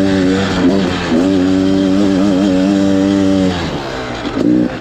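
Beta Xtrainer 300 two-stroke dirt bike engine running at a steady throttle with a slightly wavering pitch. About three and a half seconds in it backs off to a lower, quieter note, then picks up again near the end.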